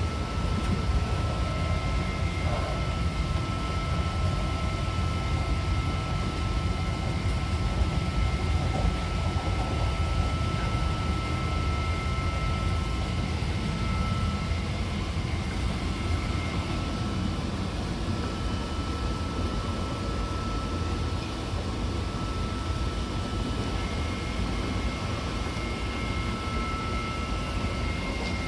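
Odakyu 70000 series GSE electric train running at steady speed: a constant low rumble of wheels on rail with a thin, steady high whine from its full-SiC VVVF traction inverter, one of the whine's two tones dropping away for several seconds past the middle and returning near the end.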